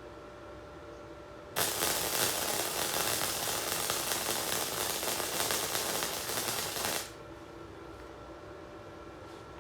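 Electric welder arc crackling in one continuous bead of about five seconds, starting about a second and a half in and cutting off sharply: a short weld laying a small lip onto the end of an exhaust hanger rod.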